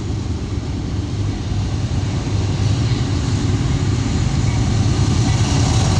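Norfolk Southern freight train's diesel locomotives approaching, a steady low engine drone that grows gradually louder.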